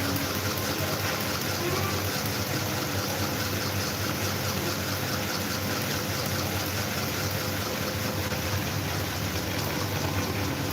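Electric table fan running: a steady rush of air from the blades with a low, even motor hum underneath.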